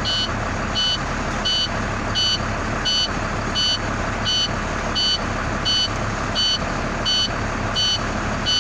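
A septic truck's backup alarm beeping steadily, about three beeps every two seconds, over the engine running.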